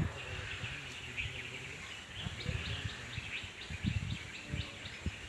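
Small birds chirping in a string of short, high calls, with a few low thumps underneath.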